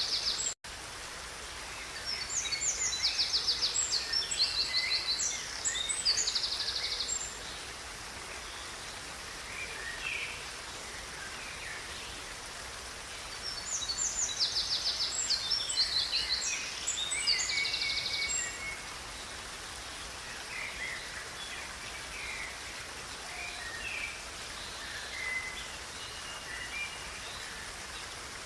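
A songbird singing two long phrases of fast, high trills about ten seconds apart, with scattered shorter calls in between, over the steady rush of a river. The sound drops out completely for a moment under a second in.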